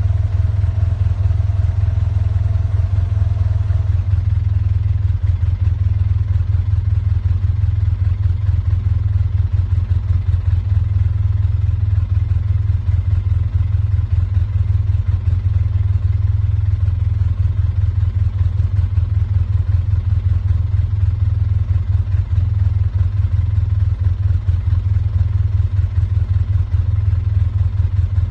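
Steady low rumble of an idling engine, with no change in pace.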